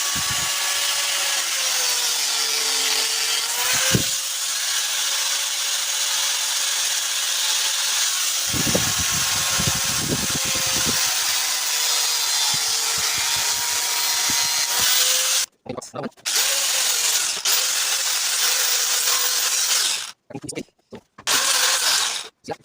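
Handheld power tool running while cutting a small guide piece, a steady whine over hiss that sags in pitch for a moment under load. About two-thirds of the way through it stops, then runs again in shorter bursts.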